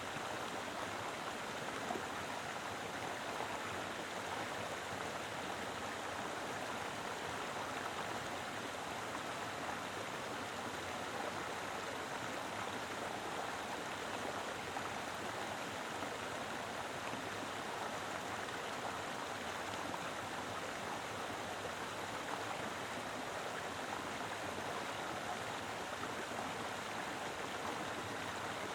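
Mountain river flowing steadily over rocks, a full, even rush of water with small gurgles.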